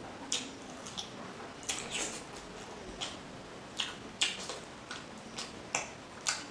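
Close-up eating sounds of rice and fish curry being chewed: a string of short wet clicks and smacks, roughly two a second at irregular spacing.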